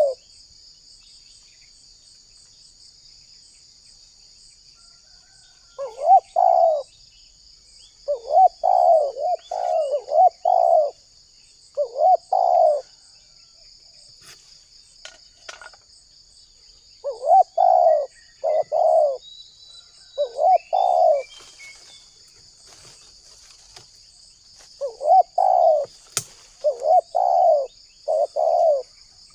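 Spotted dove (tekukur) cooing in repeated short phrases, in four bouts separated by pauses of several seconds. A steady high insect buzz runs underneath.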